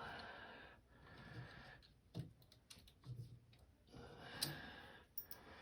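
Faint, irregular light clicks and rustling of small metal bolts and hand tools being handled while the washer's bolts are fitted.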